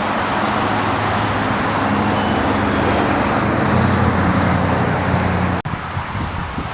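Steady road traffic noise with a vehicle engine running, a loud even rush under a low hum. It breaks off briefly about five and a half seconds in.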